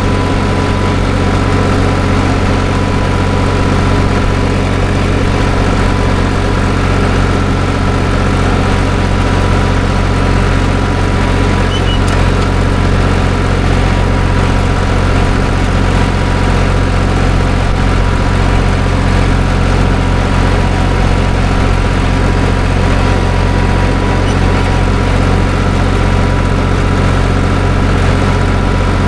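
Farm tractor engine running steadily, with an even, unchanging drone and no rise or fall in speed.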